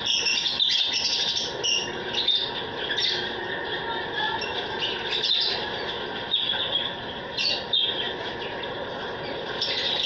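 A flock of caged aviary birds, lovebirds among them, chirping and chattering without pause, with many short high calls overlapping.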